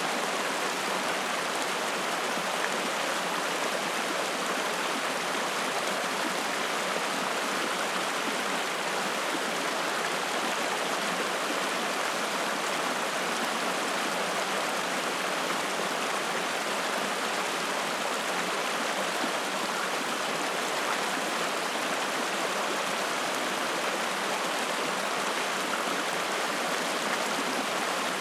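A small spring-fed mountain stream rushing and splashing over rocks, a steady water noise.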